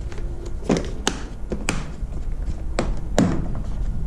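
About half a dozen sharp clicks and knocks from rummaging in a plastic parts organizer tray: compartment lids and small nylon fuel-line fittings being handled.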